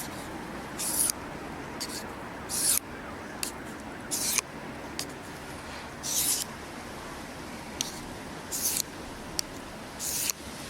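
Knife blade stroked across a fine 6000-grit Japanese water stone coated in slurry, giving a short scraping hiss with each pass: six strokes, one every couple of seconds, with light ticks between them as the blade is set back on the stone.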